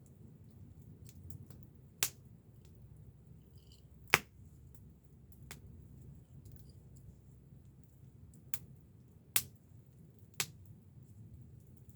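Wood campfire crackling, with a low steady burning sound and about six sharp pops from the burning wood at irregular intervals, the loudest about four seconds in.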